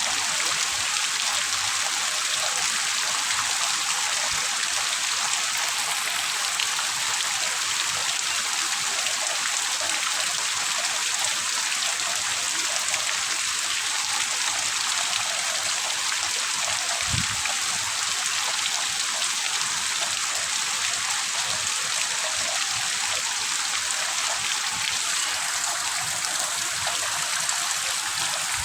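Heavy rain falling steadily as an even hiss, with one short low thump a little past the middle.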